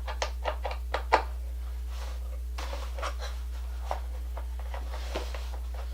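Hands handling small parts: a quick run of small clicks and knocks in the first second, then soft rustling and a few faint ticks, over a steady low hum.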